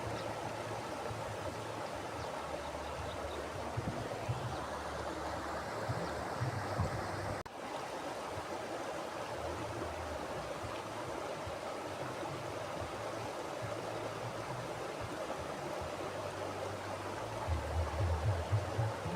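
Mountain river flowing: a steady rush of water, with patches of low rumble that come and go and grow stronger near the end. The sound briefly dips about seven and a half seconds in.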